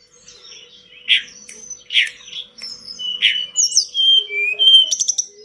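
A tledekan gunung songbird singing in full voice: a varied run of sharp chirps and clear whistled notes, a rising slur about midway, and a quick buzzy trill near the end.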